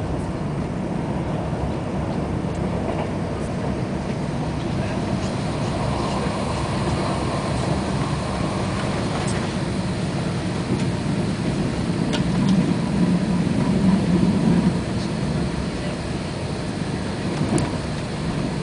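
Passenger train running along the line, its steady rumble of wheels on rails and carriage noise heard from inside the coach, growing louder for a few seconds about two-thirds of the way through.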